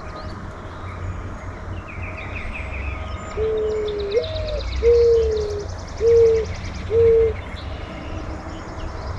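Mourning dove singing its song: a first coo that swoops up and down, followed by three long, low coos about a second apart. Fainter small songbirds chirp and trill higher up over a steady low rumble.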